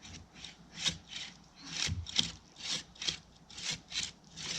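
Hand saw cutting through a tree trunk, with quick back-and-forth rasping strokes, about three a second.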